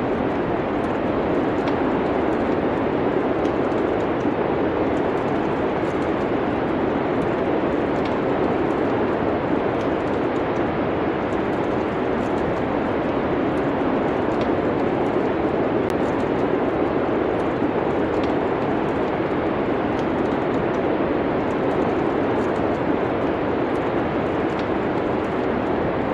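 Steady rushing wind noise with faint, scattered crackles of a wood fire.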